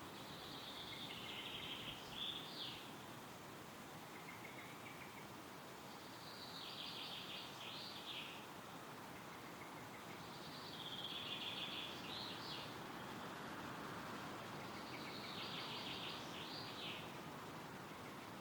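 A songbird singing the same phrase four times, each a rapid run of notes about two seconds long ending in a quick flourish, over a steady rush of wind through the trees.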